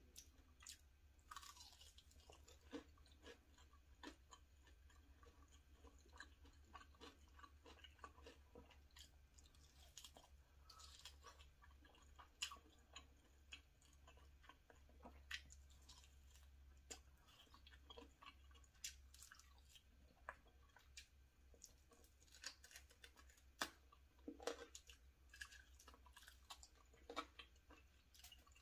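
Close-miked chewing and biting of a lollipop chicken drumstick: soft, wet mouth sounds with many short, irregular clicks and occasional crunches.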